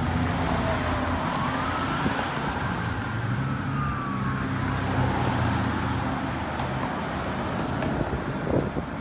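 Fire engine siren wailing in slow rising and falling sweeps, growing fainter, over the steady low rumble of a vehicle engine and road traffic.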